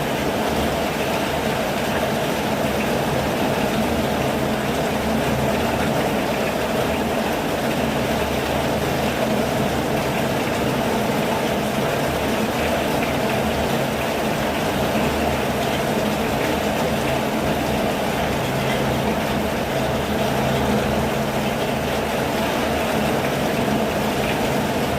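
Steady, continuous rain falling, an even rushing hiss with no let-up.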